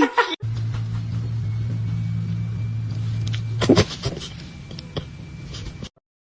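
A steady low hum, with a short, sharper sound about four seconds in.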